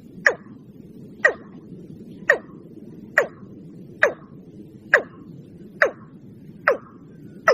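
Watercock (ayam-ayaman) calling: a series of short, sharp notes, each dropping in pitch, repeated about once a second and slightly quickening, over a steady low hiss.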